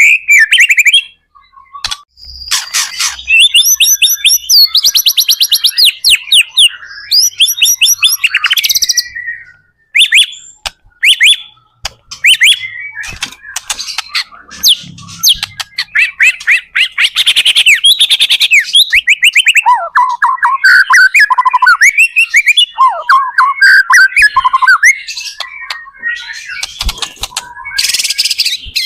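White-rumped shama (murai batu) singing at full output: a loud, fast stream of varied whistles, rapid repeated trills and chattering phrases, broken by short pauses.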